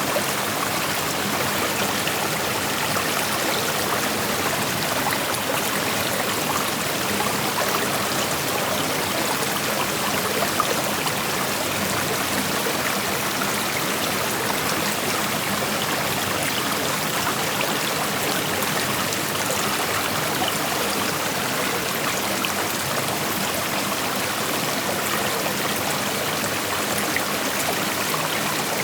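Shallow creek flowing over rocks, a steady rushing with fine trickling and splashing detail.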